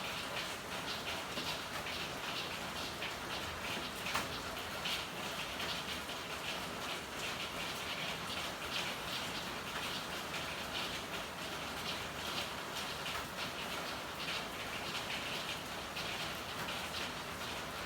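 Steady rain with a dense patter of drops over a constant hiss, and one sharper tick about four seconds in.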